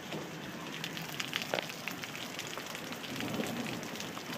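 Rain falling steadily after a short heavy downpour has begun to ease, with many separate drops and drips ticking on surfaces.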